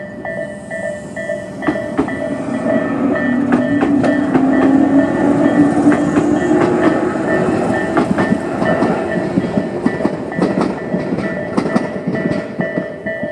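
A Tobu 850-series electric train passes over a level crossing, its wheels clattering over the rail joints, while the crossing's electronic warning bell keeps ringing.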